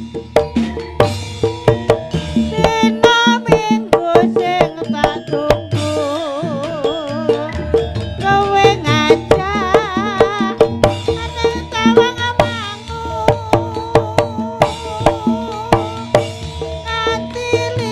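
Javanese kuda lumping ensemble playing live through a sound system: rapid hand-drum patterns under pitched metallophone-like notes, with a wavering, vibrato-laden melody line in the middle.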